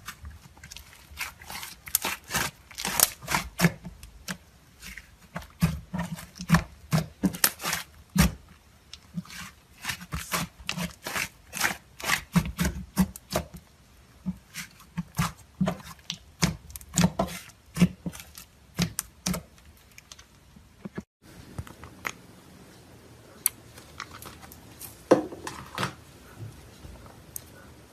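Hands squishing and pressing butter slime: a rapid, uneven series of sticky pops and clicks, which breaks off abruptly about 21 seconds in, followed by fainter, sparser clicks and a single louder pop.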